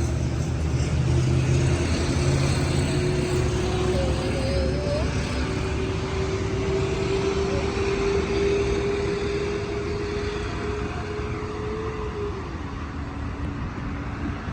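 Road traffic: a motor vehicle passing with a steady low drone and a tone that slowly rises, then drops in pitch about twelve seconds in as it goes by.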